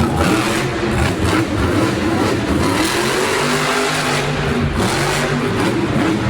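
Monster truck's supercharged V8 engine revving hard, its pitch climbing and falling repeatedly.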